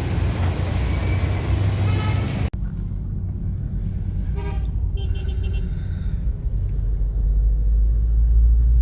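Steady low rumble of a road vehicle in traffic, with car horns honking briefly twice about halfway through.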